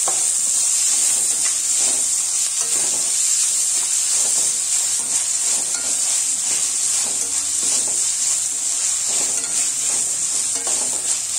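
Onions, tomatoes and green chillies frying in oil in a stainless steel kadai, a steady high sizzle, while a slotted steel spoon stirs and scrapes the pan with repeated soft strokes.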